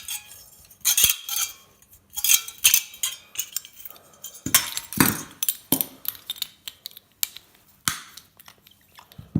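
Metal parts of an old light fitting clinking and clattering as they are handled and worked apart, in irregular knocks and scrapes with a few louder clanks.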